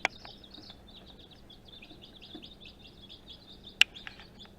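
A brood of three-day-old Cinnamon Queen chicks peeping, many short high peeps overlapping without pause. A sharp click sounds once, shortly before the end.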